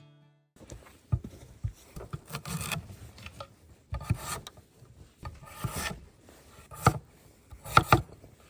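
Irregular rasping, rubbing strokes on wood with several sharp knocks, the loudest a quick double knock near the end.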